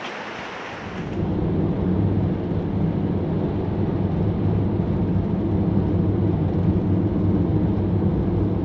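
Steady low drone of a van's engine and road noise while driving, with a hum in a few low tones; it starts about a second in after a soft hiss.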